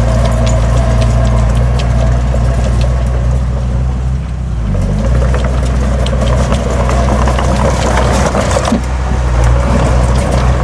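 Heavy diesel earthmoving machinery running steadily under load, with scattered metallic clanks and knocks; the engine note dips briefly about four seconds in, then comes back.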